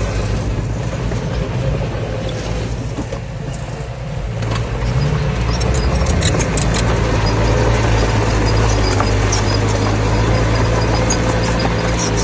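Heavy diesel engine of earthmoving machinery running, rising in pitch about four to five seconds in and holding there. Sharp high clicks come through over the second half.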